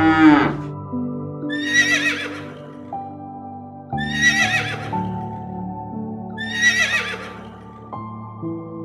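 A horse whinnying three times, about every two and a half seconds, each a short quavering call, over soft background music. A cow's moo trails off right at the start.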